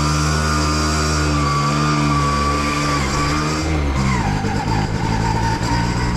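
Two-stroke motorcycle engine running under way. Its pitch holds steady, then drops about four seconds in, as at a gear change.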